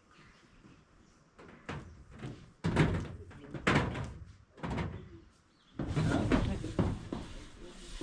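Several heavy knocks and thuds about a second apart, then a longer stretch of clattering noise near the end.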